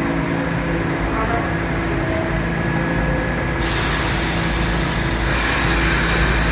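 New York City subway train noise on the platform: a steady low rumble, then about three and a half seconds in a sudden loud hiss starts and carries on.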